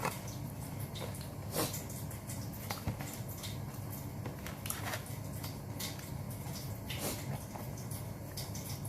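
Close-miked eating sounds: irregular chewing, smacking and mouth clicks of someone eating grilled chicken, over a steady low hum.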